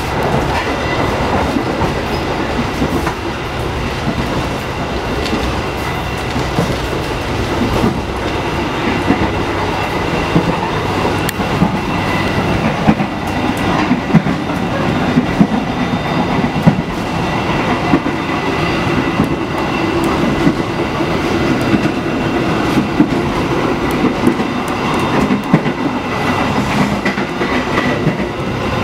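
Running noise inside a moving passenger coach (a 2016 INKA-built executive carriage): a steady rumble of wheels on the track, peppered with small irregular clicks and a faint steady whine.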